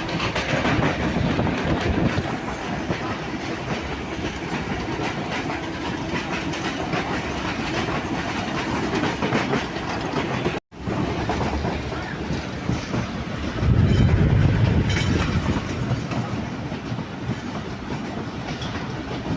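Passenger train running at speed, its wheels clicking over the rail joints over a steady rumble. The rumble swells for a couple of seconds a little after halfway, and the sound cuts out for an instant just before that.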